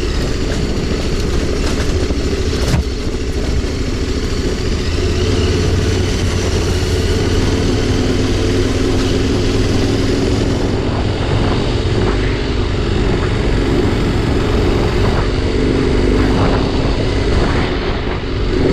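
Adventure motorcycle engine running steadily under way on a dirt trail, with one sharp knock about three seconds in.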